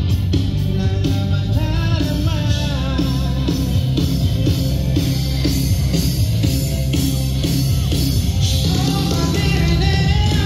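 A rock band playing live through the PA at a sound check: a voice singing over amplified guitars, with the drums keeping a steady beat of about two strikes a second.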